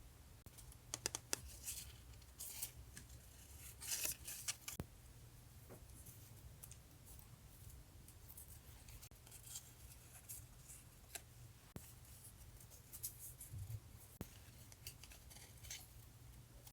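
Scissors cutting paper: clusters of crisp snips about a second in, around four seconds in, and again near the end, over a low steady hum.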